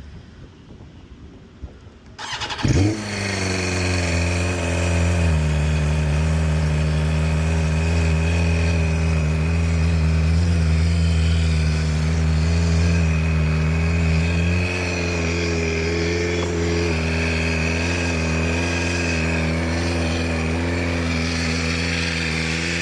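BMW M1000RR's inline-four engine cold-starting through its Akrapovič exhaust. The starter cranks briefly about two seconds in, the engine catches with a quick blip, then settles into a steady fast cold-start idle that drops slightly partway through and will calm down as it warms.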